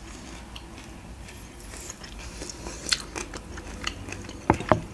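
Close-miked eating sounds: quiet chewing of macaroni with minced meat, with scattered small mouth clicks. Two short, sharp knocks come about four and a half seconds in.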